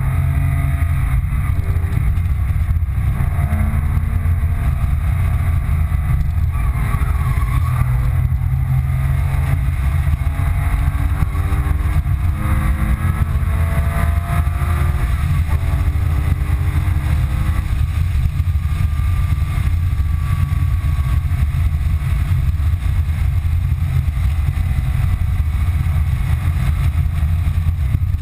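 2005 Porsche 997 Carrera 2's 3.6-litre flat-six engine pulling hard, heard from inside the cabin. Its pitch climbs several times and drops back between gear changes, over a heavy low rumble.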